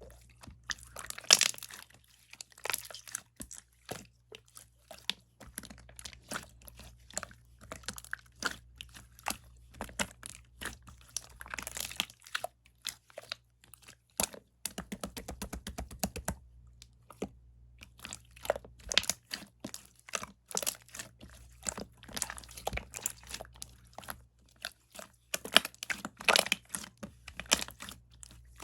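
Clear slime being squeezed and kneaded by hand, giving a dense, irregular run of small wet clicks and pops, with a short lull about 17 seconds in.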